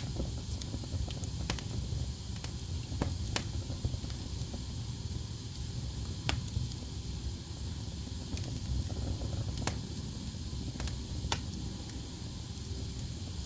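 Wood fire burning in a fireplace: a steady low rumble and hiss of flames, with sharp crackles and pops at irregular intervals, roughly one every second or two.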